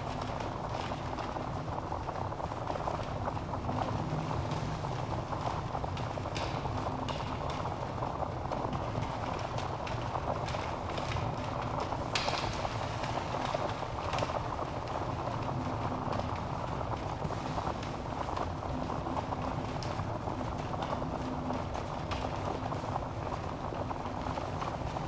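Wood fire burning in a fireplace: a steady low rush of flame with scattered crackles and pops from the logs, one sharper pop about twelve seconds in.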